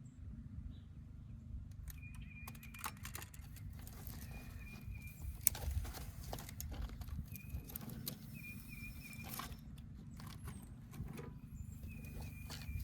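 A run of irregular sharp clicks and knocks over a steady low hum, with short high chirps recurring every couple of seconds.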